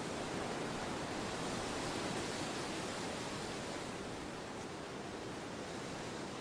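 Wind blowing steadily, an even rushing hiss that swells a little and then eases about halfway through.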